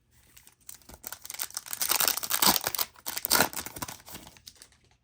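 Foil trading-card pack wrapper being torn open and crinkled by hand: a dense crackle that builds about a second in, is loudest in the middle and dies away near the end.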